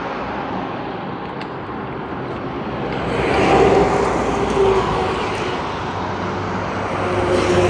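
Motor vehicle engine and road traffic noise, a steady hum that swells about three to four seconds in as a vehicle goes by, then eases.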